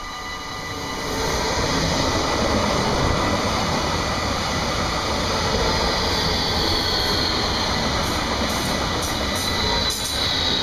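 Eurobahn Stadler FLIRT electric multiple unit passing close by. The rush of wheels on rail swells about a second in as it arrives, and a high electric whine falls in pitch as the cars go by, with a few wheel clicks near the end.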